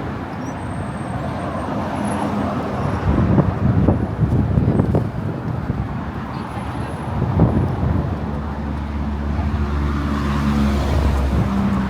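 Motor traffic running on the Brooklyn Bridge roadway: a dense, steady rumble of cars, with a low engine hum coming in about two-thirds of the way through.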